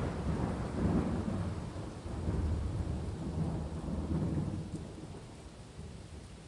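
Thunder rolling in low rumbles that swell a few times and then die away over the last couple of seconds, over steady rainfall.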